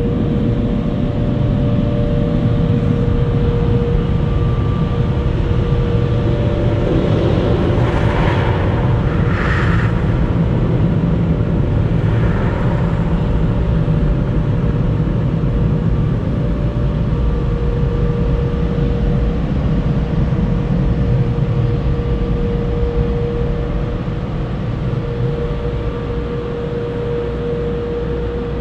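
A steady, loud mechanical rumble with a constant hum running through it, and a few brief hissy swells about a third of the way in.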